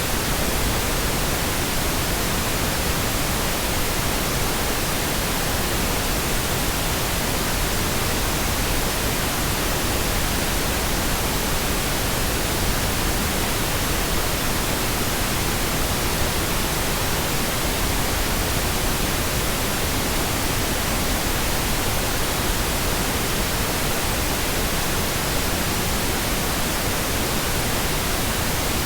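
Pink noise: a steady, unbroken hiss spread across all pitches, with no change in level.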